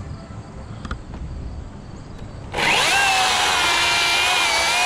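Cordless battery chainsaw's electric motor whining at full speed for about three seconds, starting suddenly a little over halfway in and holding a steady pitch.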